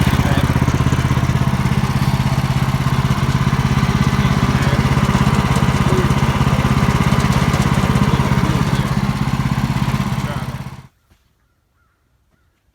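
Sawmill's engine running steadily with a rapid even pulse, then cutting off suddenly near the end.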